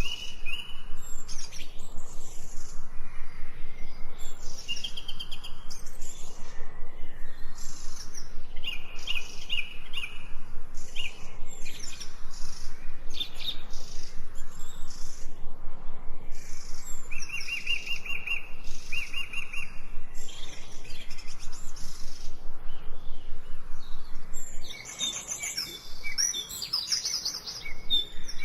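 Several songbirds singing and chirping, with short rapid trills repeated every second or two and a busier, more overlapping burst of calls near the end.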